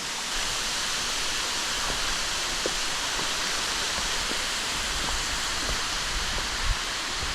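Rushing water, a steady hiss, with a few faint taps and a soft thump near the end.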